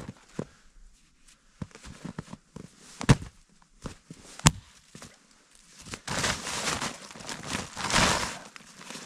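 Firewood being handled in snow: a few sharp knocks of a wooden branch, the loudest about three and four and a half seconds in, then two longer stretches of crunching and rustling about six and eight seconds in.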